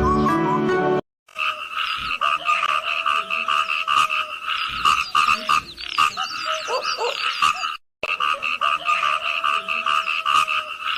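A dense chorus of frogs calling in fast, overlapping pulses, with a few higher chirps over it. The chorus breaks off for a moment about two-thirds of the way through.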